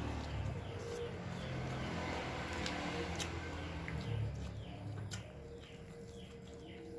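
Birds chirping in a run of short falling notes, a few each second, over a low steady hum, with scattered sharp clicks.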